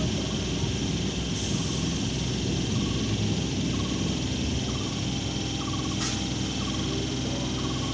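Steady running noise of a moving electric local train heard from its open doorway: a low rumble with a continuous rushing hiss. A faint short chirp repeats about once a second through the second half.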